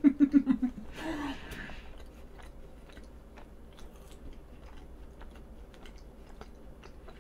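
A person chewing a soft cream roll cake, with small wet mouth clicks. It opens with the end of a short laugh.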